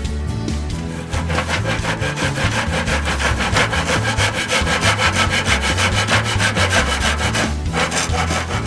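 Hand saw cutting through wood in quick, even back-and-forth strokes, stopping about a second before the end.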